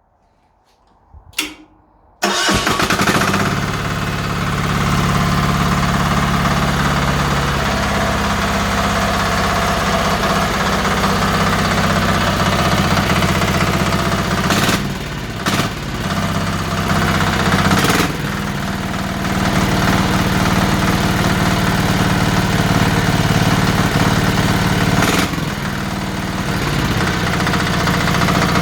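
A newly fitted replacement engine starting about two seconds in and then idling steadily, its level dipping briefly a few times.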